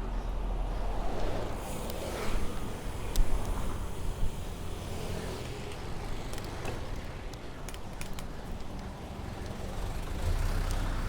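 Steady city road traffic with a low rumble of wind on the microphone, heard from a moving bicycle. A couple of sharp clicks come about three to four seconds in.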